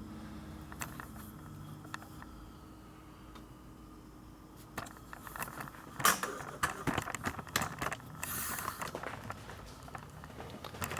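A faint steady hum, then from about five seconds in a run of sharp clicks, light clinks and rustling as metal parts and tools are handled.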